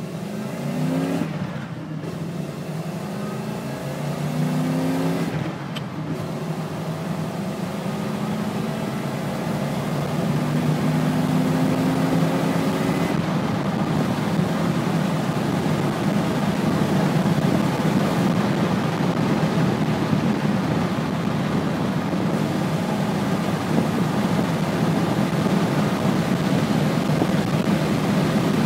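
Fuel-injected 5.0 L (302) Ford V8 accelerating hard through the gears of a five-speed manual. Its pitch climbs in each gear and drops briefly at upshifts about a second and a half in and about five and a half seconds in, then climbs more slowly until engine and road noise settle into a steady run at speed.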